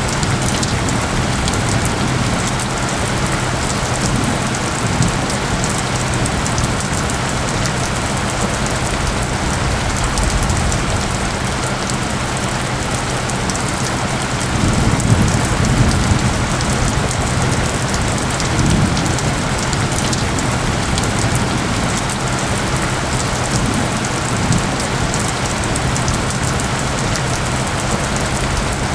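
Steady rain hiss, with low steady tones humming beneath it. A couple of low rumbles swell up around the middle.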